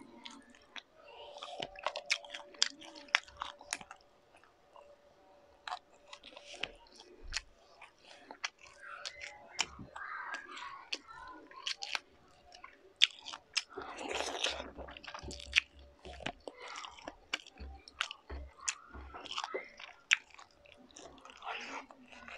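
Close-miked chewing of food eaten by hand: many small sharp mouth clicks, with a louder noisy stretch of chewing about fourteen seconds in.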